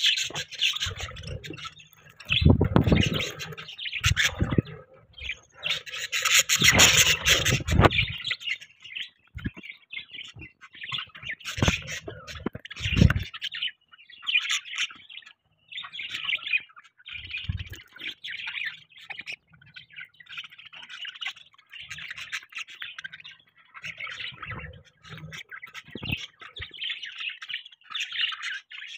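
Budgies chirping and chattering continuously, with squawks. There are occasional low thumps, mostly in the first half, and a louder, harsher stretch around the middle of the first half.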